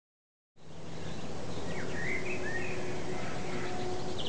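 Woodland ambience: birds chirping in short sweeping calls over a steady rushing background noise, which cuts in suddenly about half a second in.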